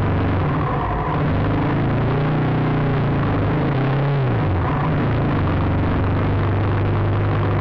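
Motorcycle engine running under the rider, its pitch rising and falling with the throttle in slow surges, then holding a steady note for the last couple of seconds.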